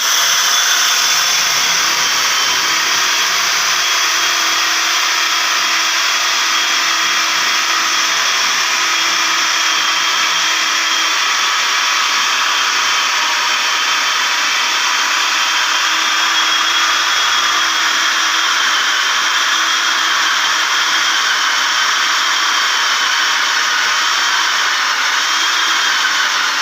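Electric motor running steadily at high speed, with a high whine over a loud, even rush of noise.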